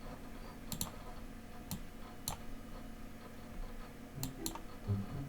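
A handful of short, sharp clicks, about five, spaced irregularly, as moves are played in an online blitz chess game.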